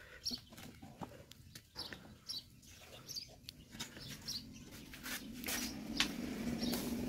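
Small birds chirping repeatedly, with a few light clicks from handling ingredients on a plate. A low steady hum comes in about halfway through.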